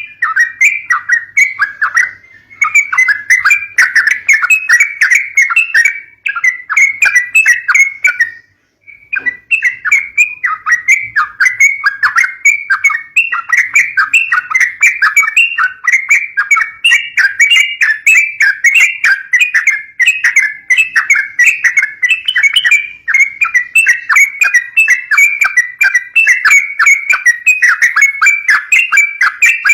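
Yellow-vented bulbul (trucukan) calls: a rapid, continuous chatter of short chirps, used as a lure for young birds, with a brief break about eight and a half seconds in.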